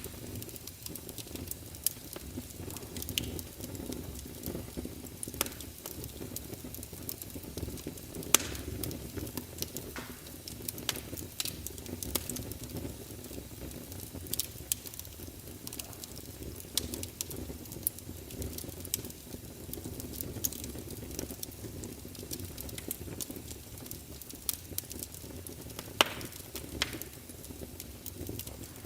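Wood fire crackling: irregular sharp pops and snaps, a few louder ones, over a steady low rumble of the flames.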